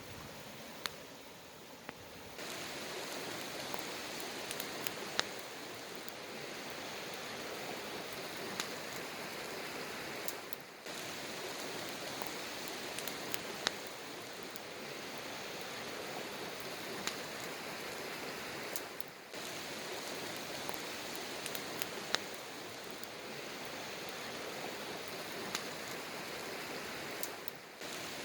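Campfire burning with a steady hiss and scattered sharp crackles and pops, broken off briefly three times along the way.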